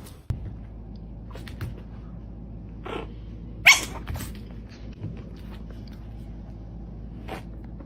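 A dog making a few short, sharp sounds, the loudest about four seconds in, over a steady low hum.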